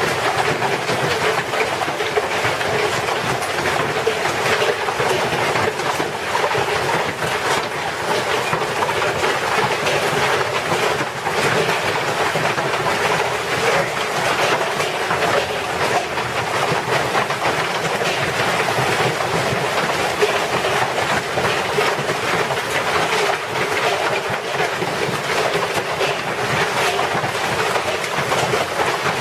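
A loud, steady rushing noise with no pitch or pauses, like strong wind or heavy rushing water.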